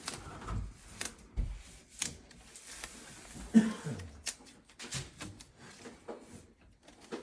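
Masking tape being handled, folded and creased by hand: scattered light rustles and small clicks, with one louder brief sound about three and a half seconds in.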